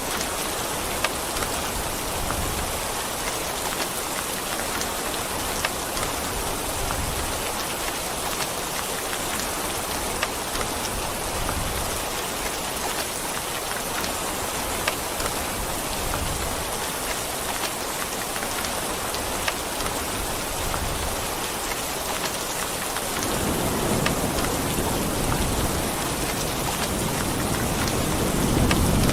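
Steady heavy rain, with now and then a single louder drop. About 23 seconds in, a low rumble of thunder comes in and builds.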